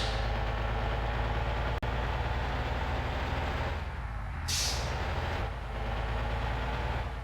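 Heavy truck's diesel engine running steadily, with a short burst of air hissing about four and a half seconds in, and a brief click a little before the second mark.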